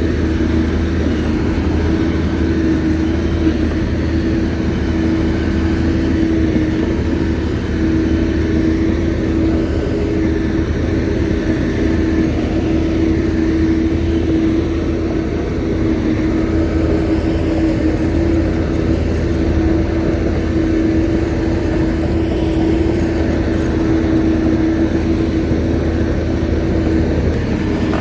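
Shantui bulldozer's diesel engine running at a steady pitch, a constant drone with no let-up.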